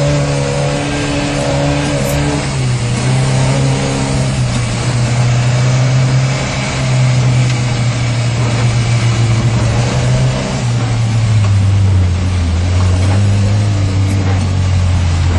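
Suzuki Samurai 4x4 engine pulling steadily off-road, heard from inside the cabin, over a constant rush of tyre and track noise. About ten seconds in, the engine note drops lower and holds there.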